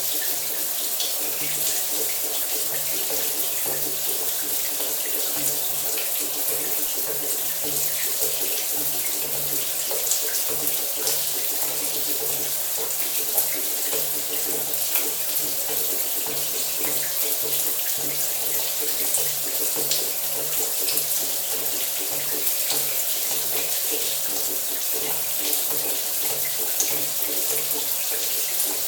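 Shower water running steadily, a continuous hissing spray with small splashes and drops spattering.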